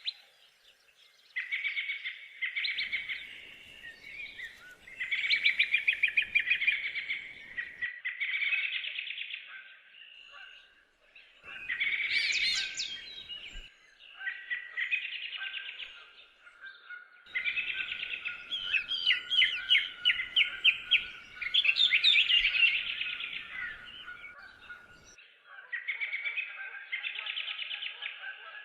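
Songbirds singing in the woods: a run of song phrases of rapid, twittering notes, each one to two seconds long with short pauses between. Through the middle stretch a thin, steady high note is held under the song.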